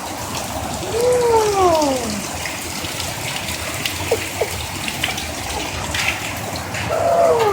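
Steady rain with water pouring and splashing. A baby makes a drawn-out vocal sound falling in pitch about a second in, and another near the end.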